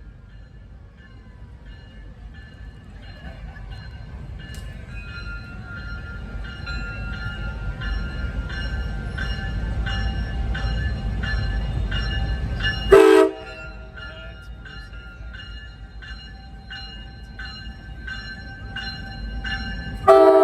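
MARC commuter train rolling closer with a low rumble that grows louder, while the locomotive bell rings steadily. About 13 s in there is a short, loud horn toot, and the rumble then falls away while the bell keeps ringing. A long horn blast begins right at the end.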